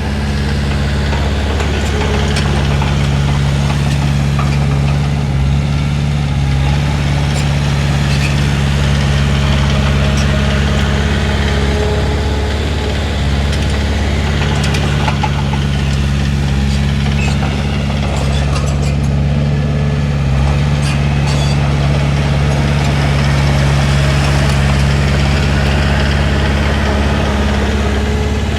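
Komatsu D31P bulldozer's diesel engine running steadily, with its note dipping briefly a few times and occasional light clanks.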